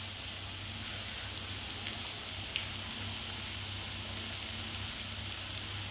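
Plantain slices shallow-frying in a little oil in a cast-iron skillet: a steady, quiet sizzle with a couple of faint crackles.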